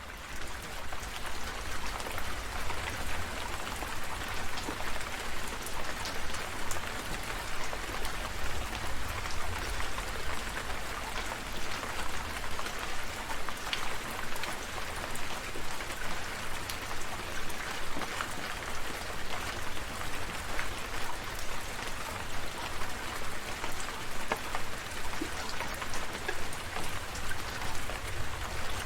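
Steady rain falling, with many individual drops ticking close by over the constant hiss, and a low rumble underneath. The sound rises in level within the first second.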